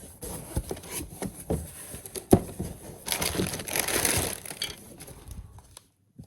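Packaging rustling and crinkling with scattered clicks and knocks as boxed phone cases are handled and shuffled, loudest about three to four seconds in.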